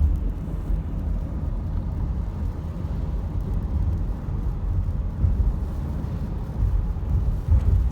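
Car driving, with a steady low rumble of engine and tyres on the road heard from inside the cabin.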